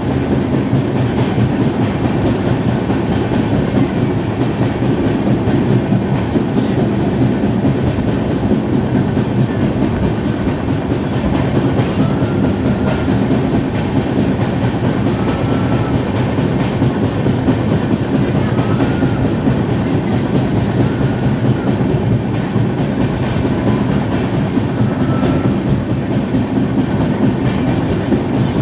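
Passenger train running on the rails: a steady loud rumble of wheels on track with a clickety-clack. Faint short high squeaks come now and then in the second half.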